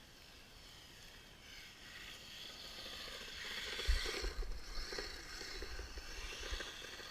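Kyosho Blizzard radio-controlled snowcat driving on its tracks: the whine of its electric motor and the clatter of the tracks grow louder to a peak about four seconds in, then fade. A few low bumps come around the loudest part.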